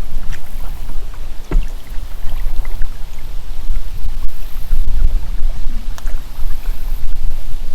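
A kayak being paddled: scattered small splashes, drips and knocks of the paddle, over a loud, gusting low rumble of wind on the microphone.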